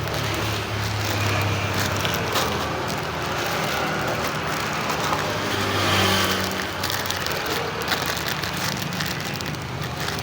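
An engine running with a steady low hum whose pitch drifts slightly, over continuous street-like noise with scattered faint crackles.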